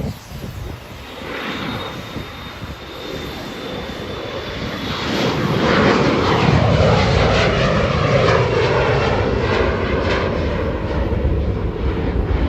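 Embraer E175 regional jet's turbofan engines on departure: a faint high whine at first, then a loud rushing jet noise that swells about five seconds in and stays loud as the aircraft goes by.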